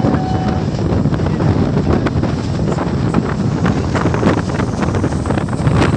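Wind buffeting the microphone over the steady rumble of a moving train, with frequent short crackles throughout.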